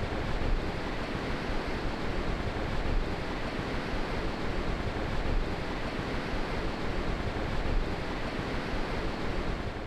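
Rough ocean surf breaking on a beach: a steady wash of noise, with wind rumbling on the microphone.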